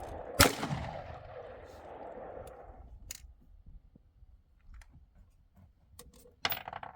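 A single gunshot about half a second in, its report ringing out and fading over the next two seconds or so. A few faint clicks follow, then a quick cluster of sharp clicks near the end.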